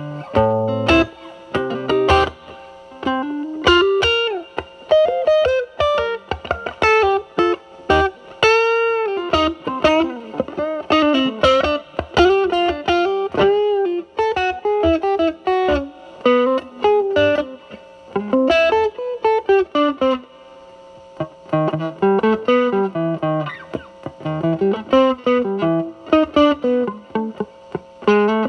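Fuzzed electric guitar: a Telecaster through a Mosrite Fuzzrite clone pedal (2N2369 silicon transistor) set at fuzz 5, into a Marshall Valvestate's drive channel, playing single-note lead lines with string bends. About nine seconds in, a held note wavers with vibrato.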